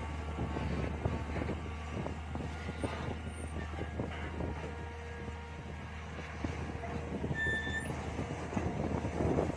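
Mini excavator's engine running steadily, with scattered knocks and scrapes from the digging work.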